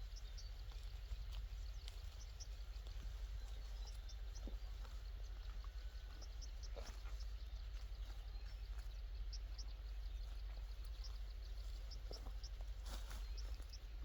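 Rural outdoor ambience: a steady low rumble under many short, high-pitched chirps that come in small clusters, with a few soft clicks and rustles here and there.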